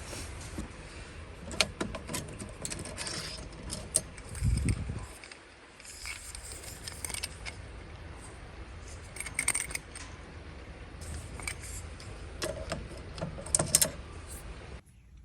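Small hard objects clinking and rattling as they are handled, in a string of short irregular clinks, with a dull low thump about four and a half seconds in.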